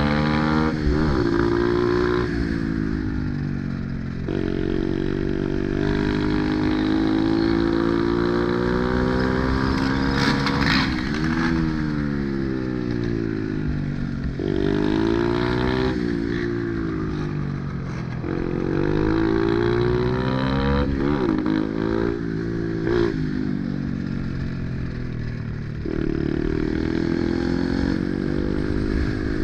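Pit bike's small single-cylinder engine being ridden hard, its pitch climbing under throttle and dropping sharply, over and over, as it is revved up, shifted and backed off. A brief clatter cuts in twice.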